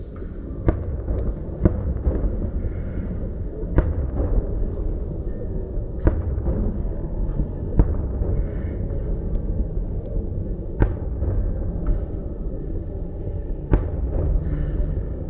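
Fireworks display: about eight sharp bangs of shells bursting at irregular intervals, over a continuous low rumble and crackle.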